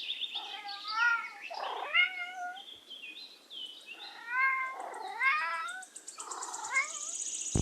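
Domestic cat meowing repeatedly: several drawn-out meows, each bending up and down in pitch, with short gaps between them.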